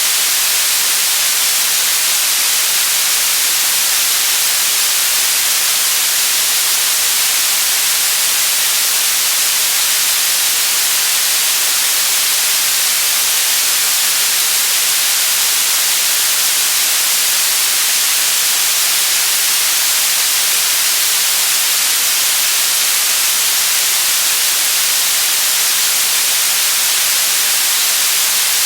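Steady white noise: an even, hissing static with no change in level or character.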